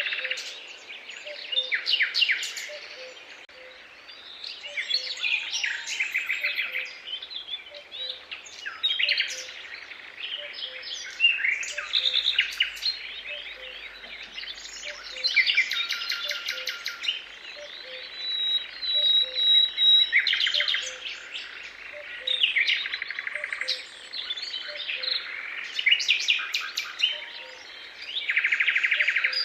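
Several songbirds singing over one another in a dawn chorus, with quick trilling phrases and chirps and one held high whistle about two-thirds of the way in. Underneath, a faint low note repeats steadily about once a second.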